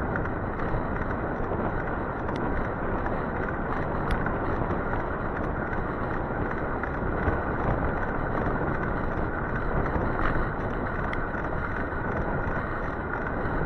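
Steady rushing noise of an e-bike ride in the rain: wind on the microphone and wet tyre hiss, with a few faint ticks.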